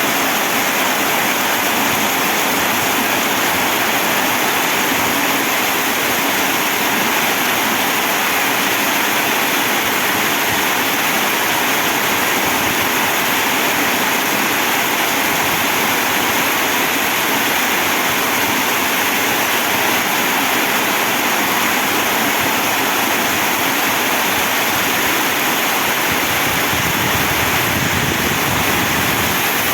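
Heavy rain falling as a loud, steady, unbroken hiss, with no single drops or splashes standing out.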